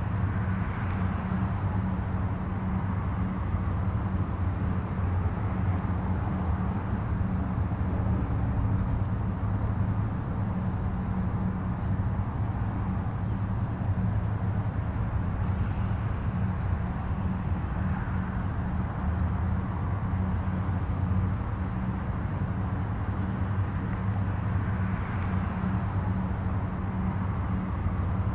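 Distant highway traffic: a steady low rumble with a faint hiss of tyres that swells and fades gently as individual vehicles pass, every several seconds.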